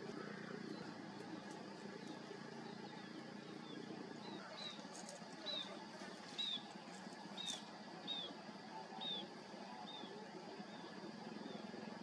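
A bird's short, high calls, each dropping in pitch, repeated about once a second for several seconds, over steady low background noise.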